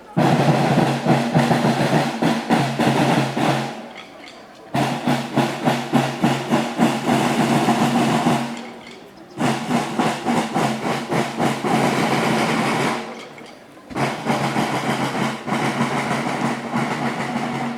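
Snare drums playing fast rhythmic patterns with rolls, in four phrases of about four seconds each, with short breaks between them.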